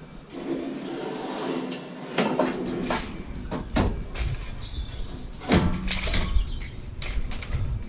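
Metal scraping and sliding for a couple of seconds, then a series of knocks and clanks as a bulky piece of scrap is handled and pulled at to take it apart.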